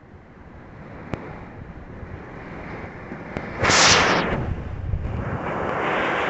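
Storm wind and heavy rain, building in strength, with a sudden loud burst of wind a little under four seconds in and two faint sharp ticks before it.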